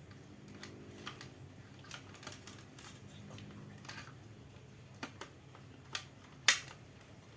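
Scattered small clicks and taps of hands handling small parts, with a sharper click about six and a half seconds in. A faint low hum runs under the first half.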